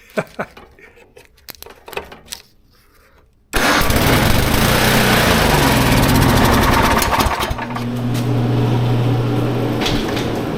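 A few faint knocks, then about three and a half seconds in a snow blower's small gasoline engine comes on suddenly and runs loudly. Its pitch drops over the next couple of seconds, then it settles into a steady running hum.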